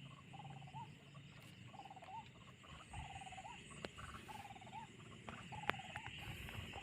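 White-breasted waterhen (ruak-ruak) calling over and over, faint: a short pulsed phrase that rises at its end, about once a second, over a steady night insect chorus. A few sharp clicks in between.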